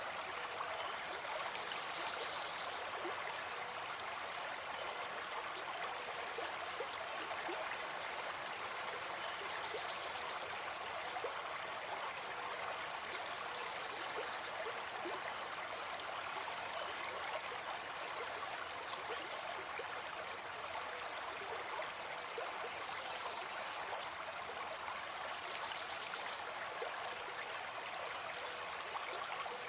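Gentle forest stream flowing steadily, an even rush of water.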